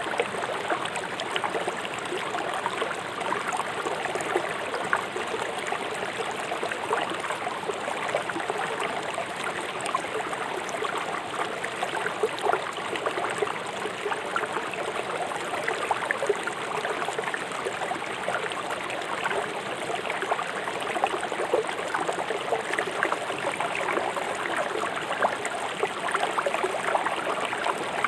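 River water rushing fast over rocks: a steady, even rush full of small splashes and gurgles.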